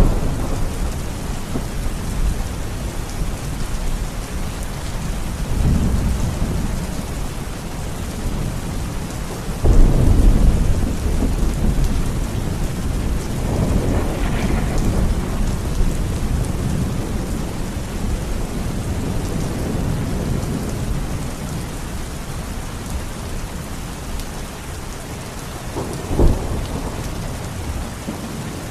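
Steady heavy rain with rolls of thunder. The loudest crack of thunder comes suddenly about ten seconds in, with softer rumbles before and after it and a short sharp clap near the end.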